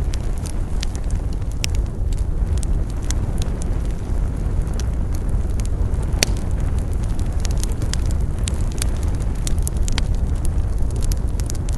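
Wood fire burning with a steady low rumble of flames and irregular sharp crackles and pops from the burning wood, one louder pop about six seconds in.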